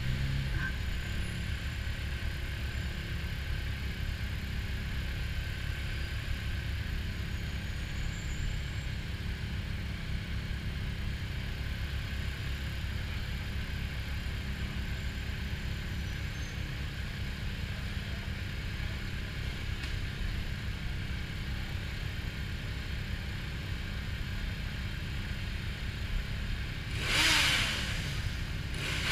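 Motorcycle engine idling steadily while the bike stands at a red light. Near the end a brief, louder rising-and-falling rush of engine sound swells up and fades.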